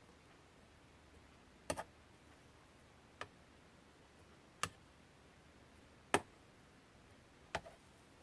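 Five sharp small clicks or taps, about one every second and a half, a couple of them doubled, over faint room hiss.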